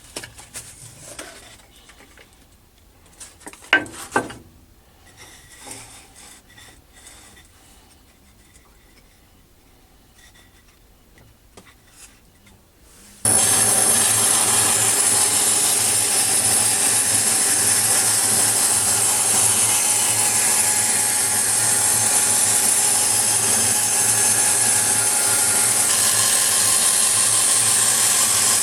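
A few handling clicks and a sharp knock, then about halfway through a scroll saw starts suddenly and runs steadily, its blade cutting 3 mm brass plate with a strong, high-pitched hiss over a low hum.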